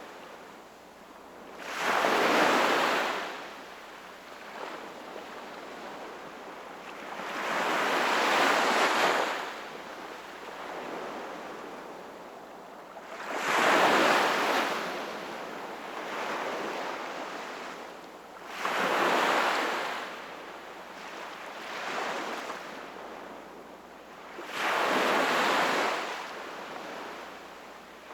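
Sea waves breaking and washing in, five surges about every five to six seconds with a softer rushing wash between them.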